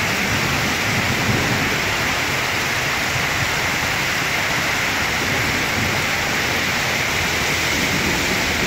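Heavy rain falling in a steady, loud hiss on a wet, flooded street.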